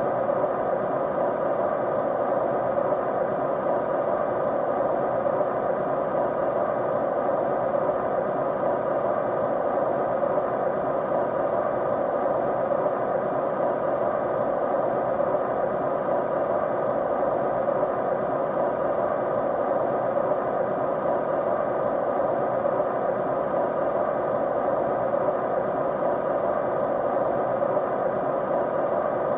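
Continuous white noise: an even, unchanging rushing hiss, muffled rather than bright, with faint steady humming tones in it.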